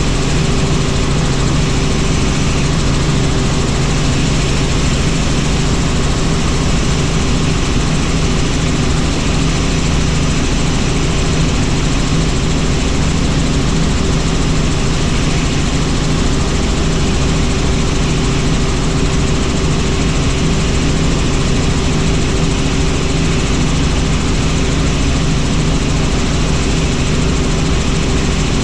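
Helicopter in flight: a steady drone of engine and rotor noise with a constant low hum.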